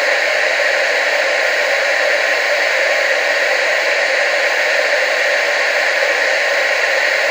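Television static: a steady, unbroken hiss with no low end, strongest in the upper-middle range.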